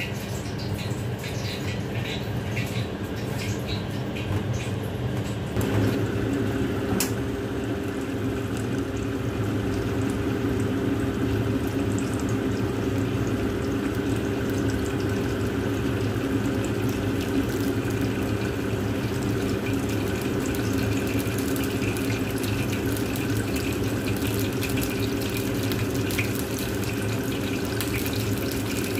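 Flour-and-egg-coated chicken fillet pieces sizzling as they shallow-fry in oil in a wok: a steady hiss that sets in about six seconds in, over a steady low hum.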